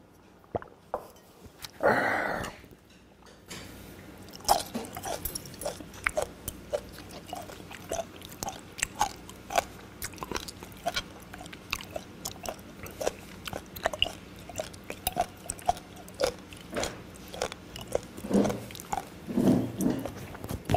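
A loud breathy exhale after a drink from a bowl, about two seconds in, then close-miked chewing with many sharp wet smacks and clicks of the mouth. A couple of short low hums near the end.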